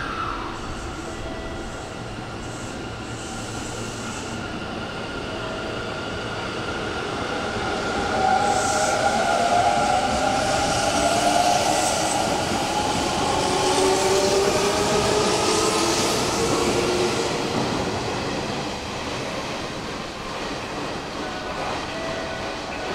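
Hanshin Railway electric train moving along the platform at Koshien Station. The rumble of wheels on rail swells about eight seconds in and stays loud for roughly ten seconds, with a whining motor tone that slides in pitch, then eases off.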